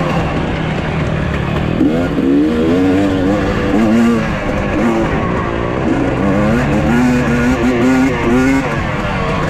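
Dirt bike engines revving hard. The pitch climbs again and again and then drops back, over a steady lower drone.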